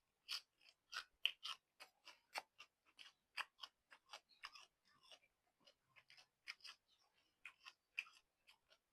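A person chewing noodles close to the microphone: a steady run of wet mouth clicks and smacks, about three to four a second.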